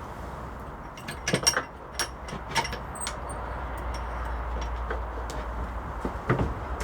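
Handling noises: a few sharp clicks and light knocks, a quick cluster about a second and a half in and single ones around two, two and a half and six seconds, over a steady low rumble.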